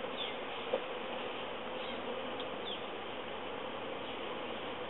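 A mass of honeybees buzzing around an opened hive in a steady hum, with one brief knock about three-quarters of a second in.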